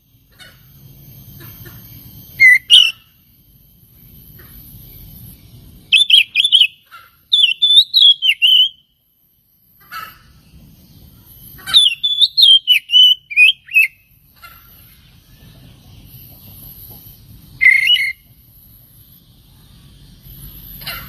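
Oriental magpie-robin (kacer) singing loud, whistled, warbling phrases in about five separate bursts with pauses between them.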